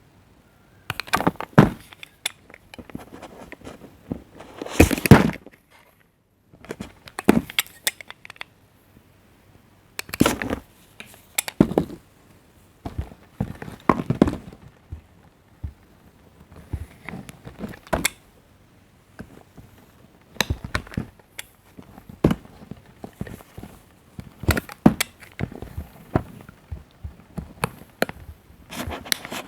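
A knife cutting into bars of soap in repeated strokes, each a short run of crisp crackling clicks, with brief pauses between strokes.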